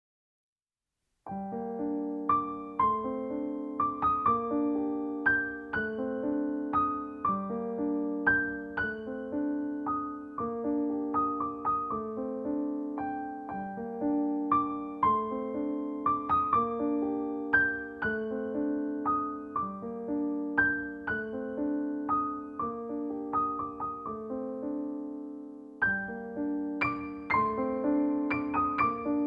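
Solo piano music playing a repeating broken-chord figure, starting about a second in, with a short break near the end before the figure starts again.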